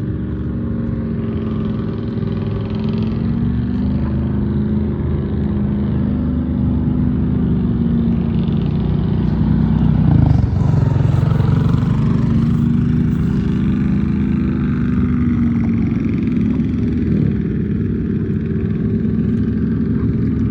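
A vehicle engine running steadily close by, its pitch shifting and its level rising a little about halfway through.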